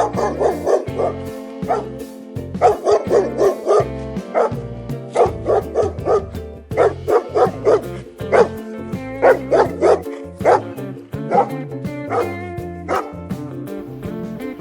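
A small dog yapping in quick runs of short, high-pitched yips, about three or four a second with brief pauses, over background music.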